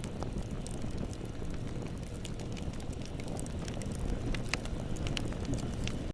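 Bonfire burning: a steady low rumble of flames with scattered sharp crackles and pops, one louder pop about four and a half seconds in.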